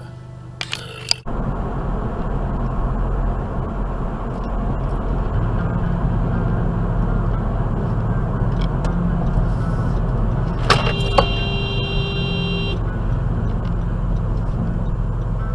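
Steady road and engine rumble heard from inside a moving car. About ten seconds in, two sharp clicks come, then a horn sounds steadily for about two seconds.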